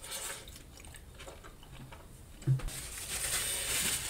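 Close-miked chewing of a mouthful of gravy-soaked fries, with faint wet mouth clicks. A low knock comes about two and a half seconds in, followed by a steady rustle of a paper napkin wiping the mouth near the end.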